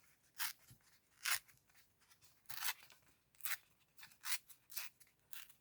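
Paper and cardstock being handled: short, crisp rustles about seven times at uneven intervals.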